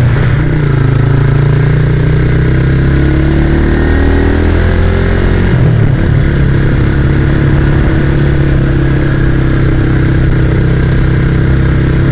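Motorcycle engine running under way as the bike is ridden. Its revs climb for a few seconds, dip about five seconds in, then hold steady.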